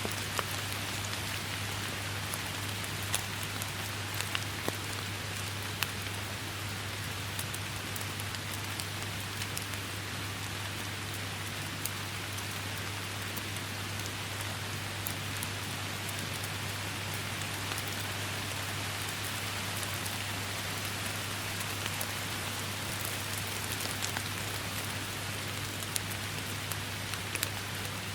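Steady rain falling, a continuous hiss dotted with the sharp taps of individual drops, over a steady low hum.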